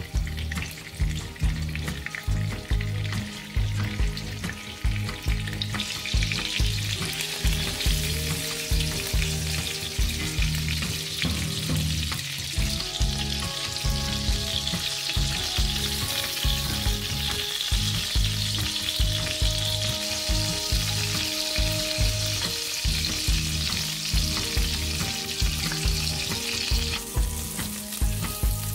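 Battered eggplant-and-minced-meat fritters frying in hot oil in a pan, a steady sizzle that grows louder about six seconds in and drops back near the end. A low, regular pulsing runs underneath.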